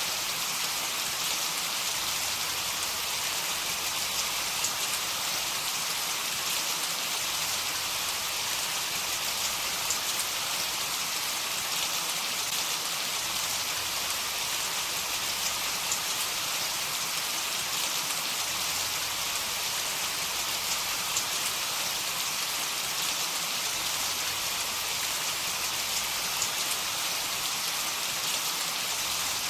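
Steady heavy rain, an even hiss of falling rain with faint scattered drop ticks; no thunder is heard.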